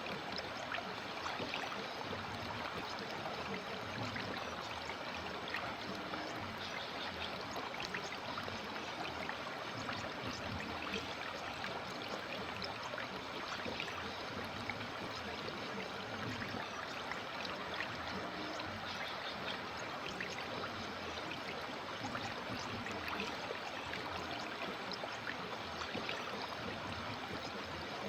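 River water flowing and babbling over stones, a steady rushing with small splashes and gurgles.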